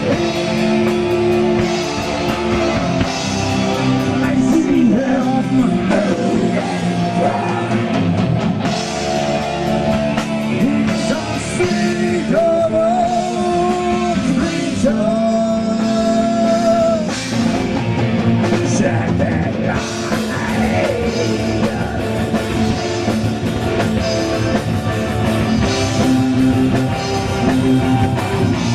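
Heavy metal band playing live at a sound check: drum kit and electric guitar with singing over them.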